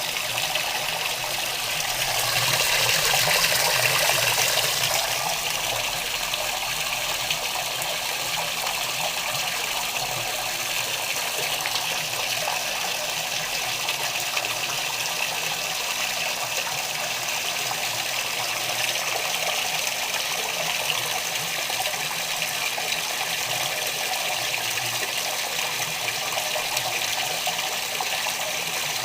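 Water rushing steadily in the tub of an Electrolux LTR10 top-loading washing machine during its rinse cycle, swelling louder for a few seconds near the start.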